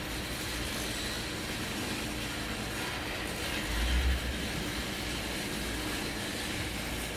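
Machinery running with a steady rumble, a brief heavier low thump about four seconds in.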